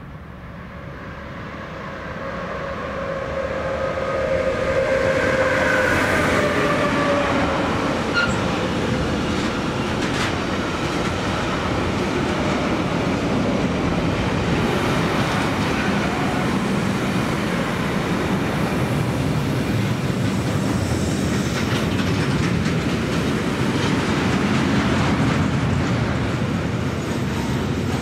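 Electric train approaching and passing close by, its wheels rumbling and clacking over the rails. The sound builds over the first few seconds, a tone drops in pitch about five seconds in as the front goes by, and then a long train of cars keeps rolling past.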